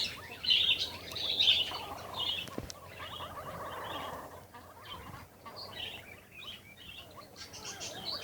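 Birds fighting, giving repeated sharp chirps that come in quick bursts at first and then grow fainter and more scattered, with a stretch of rapid rattling calls in the middle.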